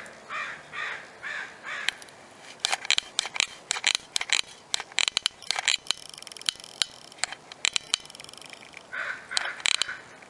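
Outdoor bird calls: repeated short caws at the start and again near the end, with a run of sharp clicks and a high buzzing call in between.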